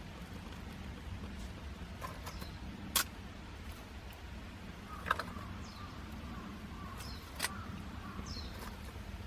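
Outdoor ambience: a steady low hum with a few short, high, falling bird chirps and three sharp clicks spread through it.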